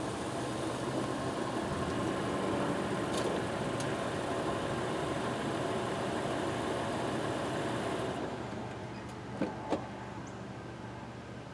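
A vehicle engine running steadily. About eight seconds in it eases off and turns duller, and two sharp knocks follow shortly after.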